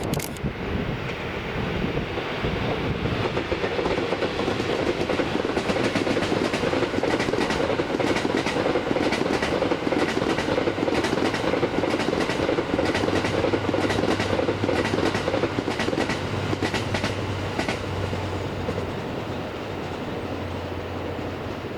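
Locomotive-hauled train of E26 series passenger coaches passing at speed, wheels clicking over the rail joints in a steady run of clickety-clack; a low hum joins in about halfway through, and the sound eases off near the end.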